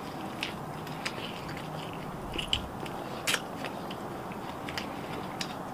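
Close-up eating sounds: chewing and biting chicken meat off the bone, with scattered small clicks and smacks from the mouth.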